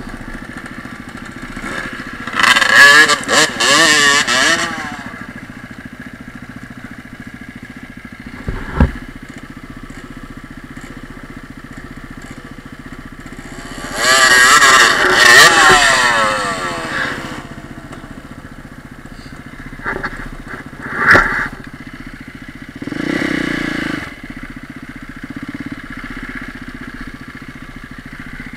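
Enduro dirt bike engines idling, revved hard twice in long rising-and-falling bursts while riding through tall reeds, with a sharp knock about nine seconds in and short throttle blips near the end.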